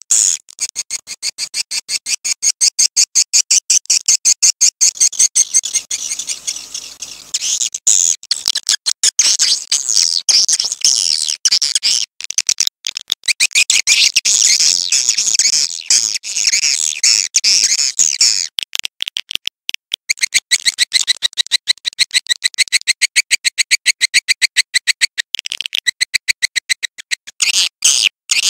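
Swiftlet call track: rapid, evenly repeated chirping and twittering of swiftlets, many chirps a second, with a few short breaks.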